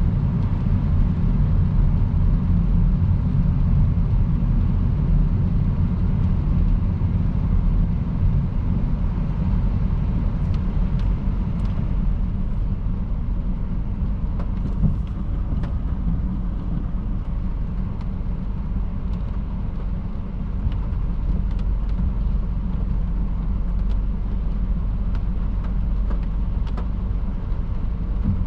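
Car travelling at motorway speed on a wet road: a steady low rumble of tyre and road noise with a hiss above it. A few faint ticks come through in the middle.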